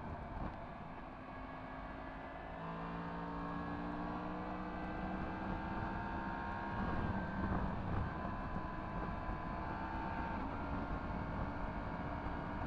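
Yamaha MT-10 SP's crossplane inline-four engine, with an Akrapovič exhaust, pulling as the bike is ridden, its note climbing slowly in pitch under acceleration. Near the middle the pitch drops back and climbs again, over a steady rush of wind and road noise.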